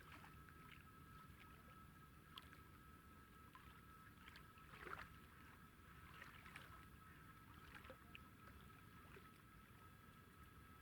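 Near silence: faint background ambience with a steady high-pitched whine, scattered faint ticks and a brief soft rustle about five seconds in.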